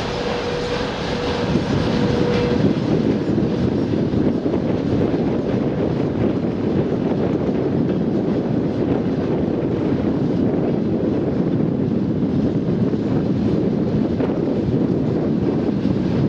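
Steady, loud rumbling noise of a passing vehicle, with a steady tone held for about the first two and a half seconds.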